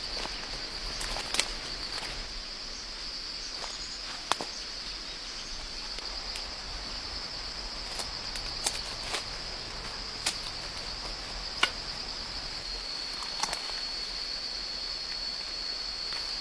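Steady high-pitched chorus of insects, with a handful of sharp snaps and clicks scattered through it.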